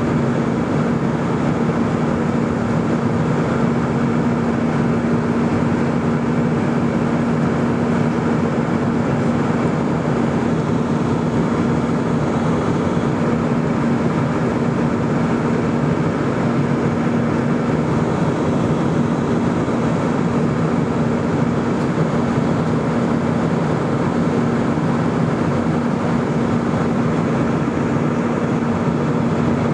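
Airbus A320 in flight: steady jet engine and airflow noise, a constant drone with a steady hum and no change in level.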